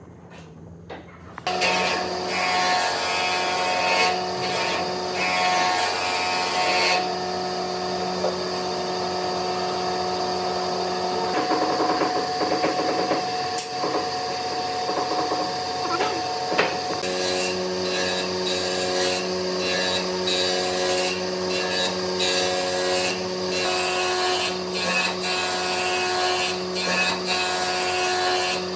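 An electric power tool starts about a second and a half in and runs steadily on wood, its motor hum holding one pitch, with rough cutting noise coming and going as it works the wood.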